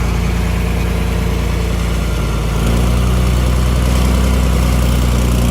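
Old John Deere diesel tractor engine running at a steady idle, its note growing louder and heavier about halfway through.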